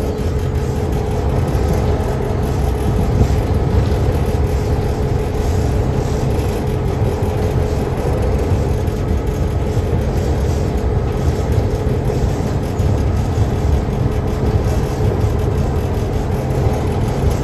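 Reading & Northern train running, heard from on board: a steady low rumble with a steady hum on top, unbroken throughout.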